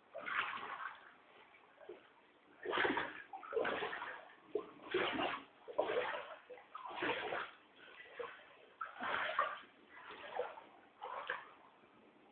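Floodwater sloshing and splashing in a series of bursts, roughly one a second.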